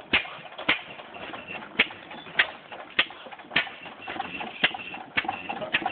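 Slow-running antique engine on a homemade log tractor firing sharp single pops about every half second to second, unevenly spaced with an occasional skipped beat.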